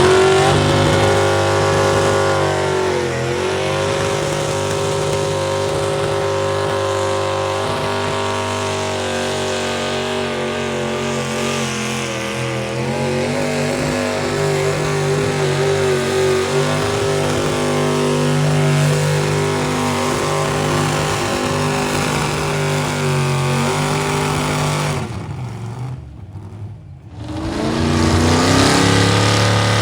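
Pulling vehicle's engine running hard under load: it revs up at the start, holds a high, steady pitch with small wavers for most of the time, falls away briefly about 25 seconds in, then revs up again near the end.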